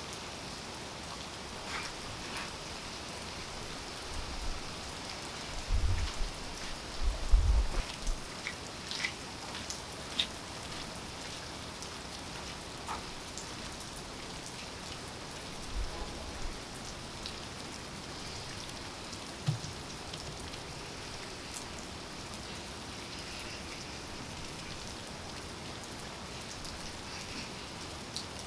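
Steady rain falling, with scattered sharp drip ticks from individual drops. A few low thuds come about four to eight seconds in.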